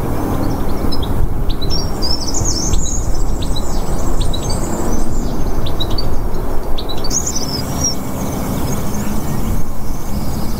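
Small birds singing: quick bursts of high chirps and twittering phrases, one bout in the first few seconds and another a little past the middle, over a steady low rumble that is the loudest thing throughout.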